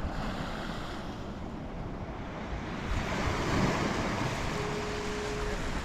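Ocean surf washing against a rock jetty, with wind buffeting the microphone; a wave surges up about three seconds in. A short, faint steady tone sounds near the end.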